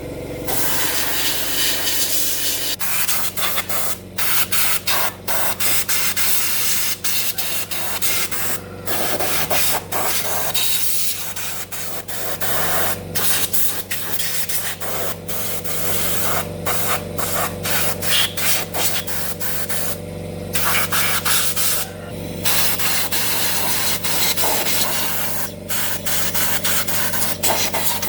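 A hard spray hissing, cut off briefly again and again, over a steady low machine hum.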